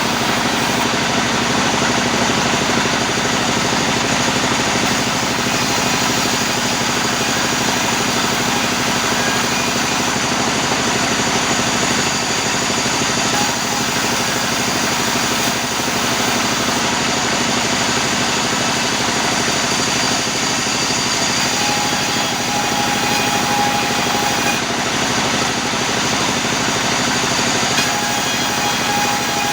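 Sawmill machinery running steadily, a loud continuous mechanical noise with several steady tones. A higher whine comes and goes twice in the second half.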